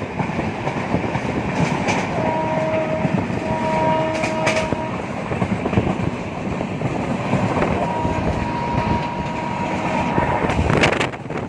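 Express train coach running at speed, a steady rumble and rattle of wheels on track. The locomotive's horn sounds over it as a two-note chord, one blast lasting about three seconds starting about two seconds in, and another from about eight seconds in. A short burst of clatter comes near the end.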